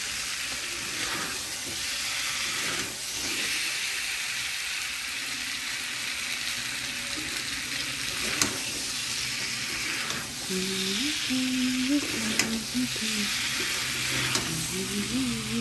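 Chicken pieces in a thick spice paste sizzling as they are fried down and stirred in a pan, with a few sharp knocks of the spatula against the pan.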